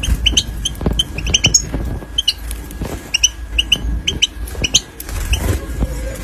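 Young European goldfinches calling: many short, high chirps in quick clusters over a low rumble.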